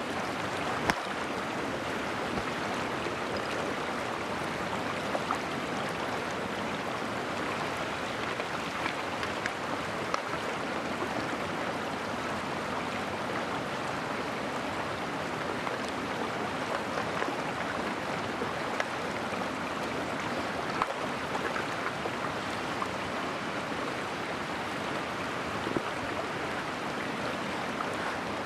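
Mountain stream flowing steadily, with a scattering of brief small clicks over it.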